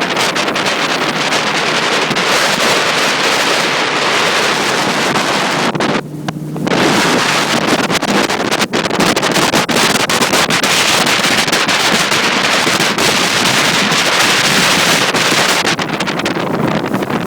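Heavy wind buffeting the microphone on a moving motorboat, with the boat's motor humming underneath; the wind eases for a moment about six seconds in, and the motor's hum shows through.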